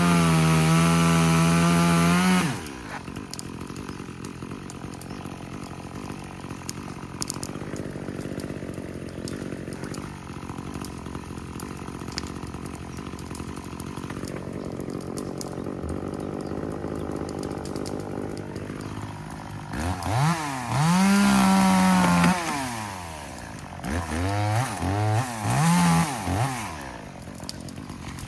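Two-stroke chainsaw running at full throttle, then dropping to a quieter idle for most of the time. Near the end it is revved up and held for about two seconds, then blipped several times in quick succession.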